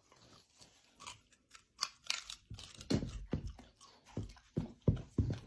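Crunching and chewing: irregular sharp crunches, faint at first and louder and closer together from about two seconds in.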